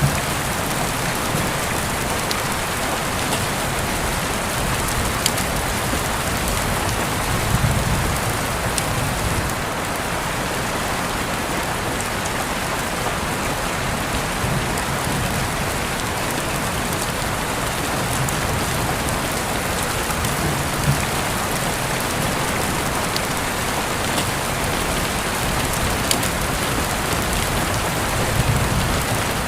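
Steady rain falling, a dense even hiss with scattered sharper drop ticks. A soft low rumble swells briefly about a quarter of the way in and again near the end.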